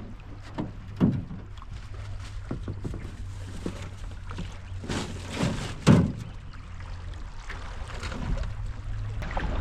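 Canoe being paddled: irregular paddle strokes and splashes with a few hollow thunks, the loudest about six seconds in.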